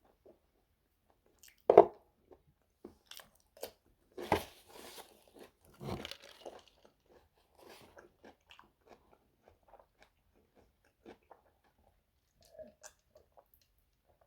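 Close-up eating sounds of crispy air-fried chicken drumsticks: a sharp loud crunch about two seconds in, two more crunchy bites around four and six seconds, then chewing with scattered small mouth clicks.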